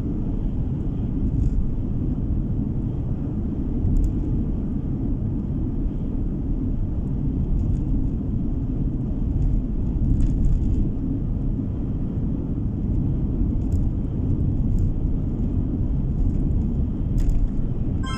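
Car driving along a road, heard from inside the cabin: a steady low rumble of tyre and engine noise, with a few faint ticks.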